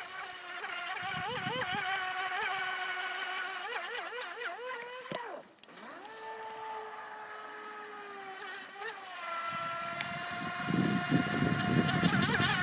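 Radio-controlled FT009 speedboat's brushed 540 motor whining as the boat runs on the water, its pitch wavering up and down at first, dipping briefly about halfway, then holding steady. A low rushing noise rises near the end.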